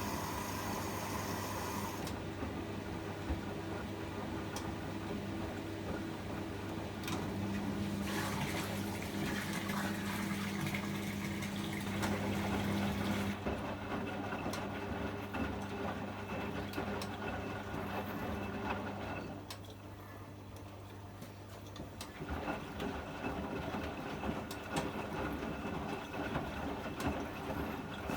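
Privileg 804 washing machine running, with water sounds over a steady low hum. The sound changes about 20 s in, dropping quieter, and from about 22 s in light ticks sound over the hum.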